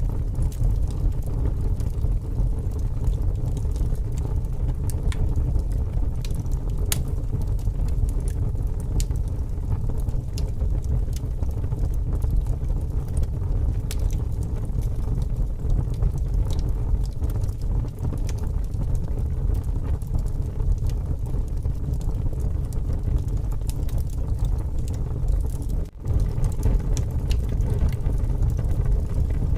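Wood fire crackling, with scattered sharp pops, over a steady low rumble of strong wind. The sound cuts out for an instant near the end.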